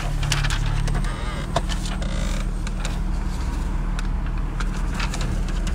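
Car interior with the engine running: a steady low hum, overlaid by scattered sharp clicks and rustles.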